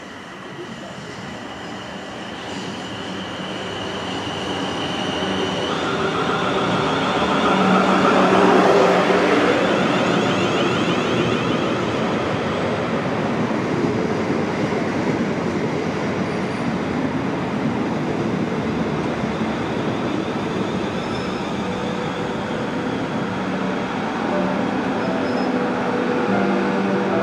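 South Western Railway Class 444 electric multiple unit approaching and running past along the platform, with a steady high whine over the first six seconds. It is loudest about eight seconds in as the front draws level, then gives a steady run of wheel and motor noise as the coaches go by.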